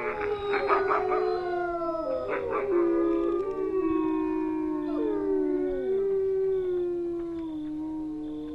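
A pack of wolves howling in chorus: several long, overlapping howls at different pitches, most sliding slowly downward, with quick yips mixed in during the first three seconds.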